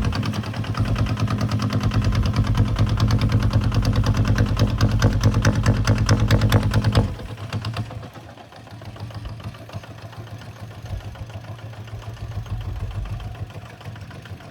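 Kubota ZT155 single-cylinder diesel engine running loud with a rapid, even pulse, then about halfway through it drops suddenly to a much quieter, softer running.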